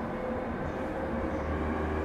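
Interior running sound of a JR East 209 series 500 subseries electric train: a steady rumble of wheels on rail with faint steady tones of the running gear above it, slowly getting a little louder.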